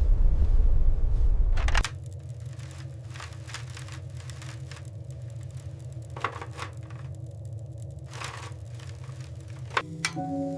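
Loud low wind rumble that cuts off abruptly about two seconds in, followed by quiet scattered clicks and crackles over a low steady hum.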